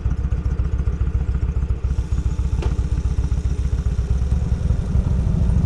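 Motorcycle engine running at low revs, a steady beat of exhaust pulses, with one faint click about two and a half seconds in.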